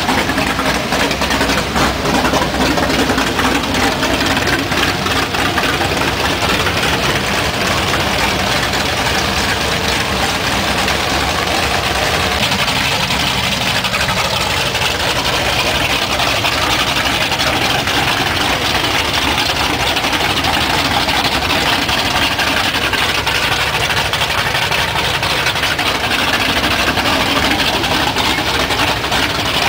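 Mud truck engines running steadily, with no sharp revs or impacts standing out.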